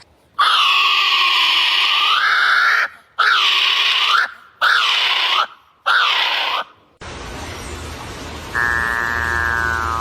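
Harsh, screeching bird calls: four long screeches in a row. Then an abrupt switch to a different recording with a low hum underneath and a buzzy, pitched call near the end.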